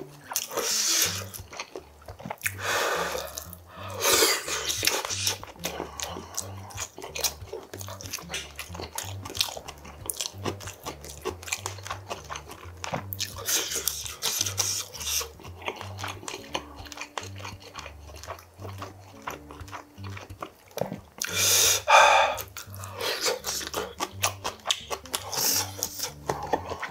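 Close-up eating sounds of a person chewing braised pork kimchi stew and rice: wet chewing and many small clicks of chopsticks and mouth, with a few louder noisy bursts. Quiet background music runs underneath.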